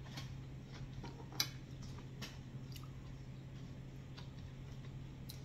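A person quietly chewing a mouthful of raw zucchini lasagna, with a few faint scattered clicks, over a steady low hum.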